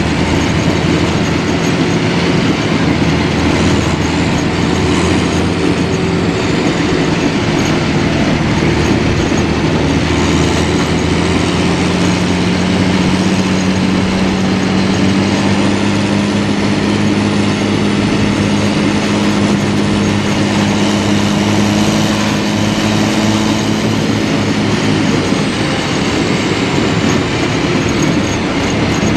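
M113B armoured personnel carrier's diesel engine running hard under load with the steady clatter and squeal of its steel tracks, as it strains to tow a bogged 6x6 truck. The engine pitch climbs slowly through the middle, holds, then eases off near the end.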